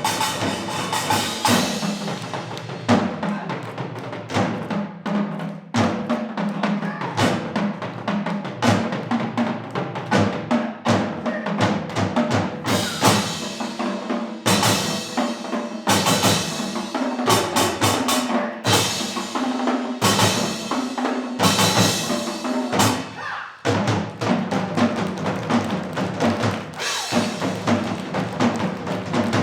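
Live percussion ensemble music: drums beating a busy, dense rhythm over a held melodic line.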